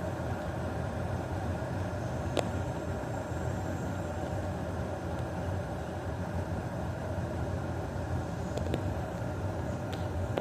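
Electric kettle heating water, a steady rumbling hiss as the water works toward the boil, with a few faint ticks.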